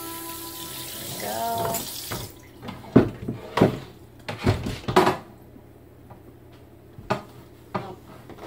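Water running in a kitchen sink, stopping about two seconds in, then a series of sharp knocks and clatters as a glass refrigerator shelf is handled at the sink.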